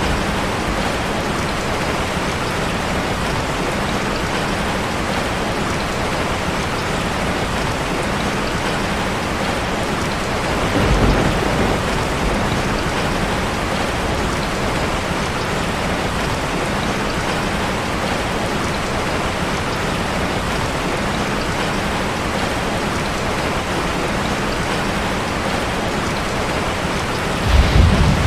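Steady, heavy rain drumming on a metal roof. A low rumble of thunder swells about eleven seconds in and again near the end.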